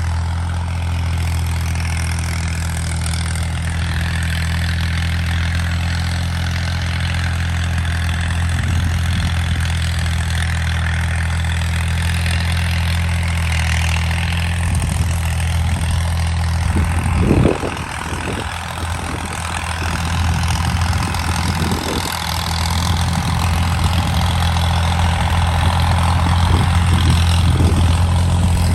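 Al Ghazi 65 hp tractor's diesel engine running steadily, with a brief cluster of louder knocks about seventeen seconds in.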